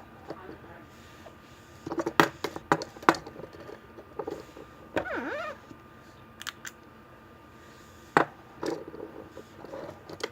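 Plastic toys being handled: a few sharp clicks and knocks, with a short bending vocal sound about five seconds in.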